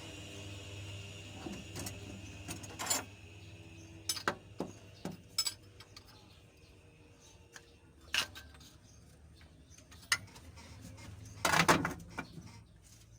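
Scattered metallic clinks and knocks of hand work on a Mitsubishi 4D56 diesel engine while its timing belt is fitted, with the loudest clatter near the end, over a steady low hum.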